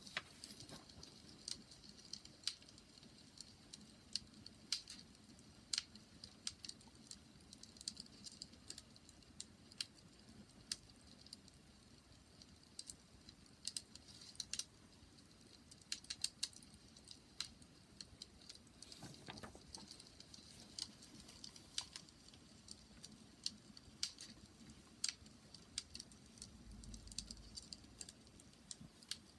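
Wood fire crackling: irregular sharp pops and snaps over a soft low rumble of the burning fire.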